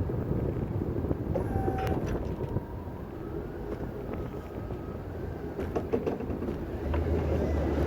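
An engine running steadily with a low rumble, with faint whining tones above it and a few clicks; the low hum grows stronger near the end.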